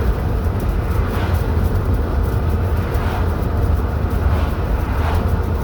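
Car driving: a steady, loud low rumble of road and engine noise.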